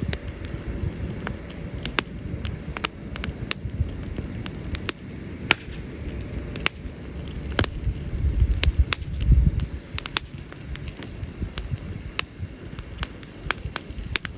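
Wood fire crackling, with irregular sharp pops and snaps over a low rumble that swells louder about nine seconds in.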